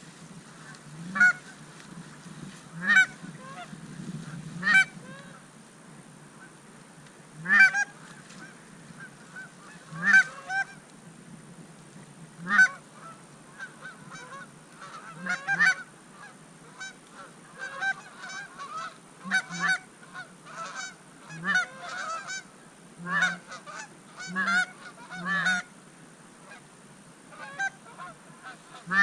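Geese honking repeatedly, one short call after another, the calls coming closer together in the second half.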